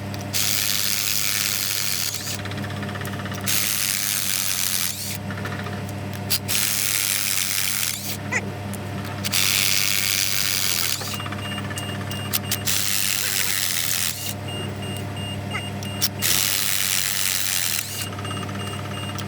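A power tool run in repeated bursts of one to two seconds, hissing on and off about eight times, over a steady machine hum.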